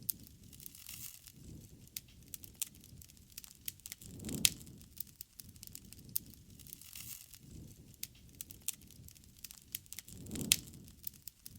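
Wood fire crackling, with scattered sharp pops and two louder snaps about four and ten and a half seconds in.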